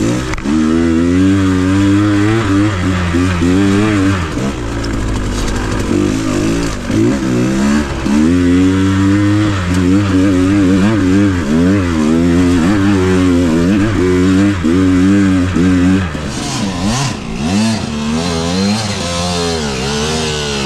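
Dirt bike engine running under load, its pitch rising and falling continually as the throttle is opened and closed. About 16 seconds in it drops lower and quieter, with a few brief clattering knocks.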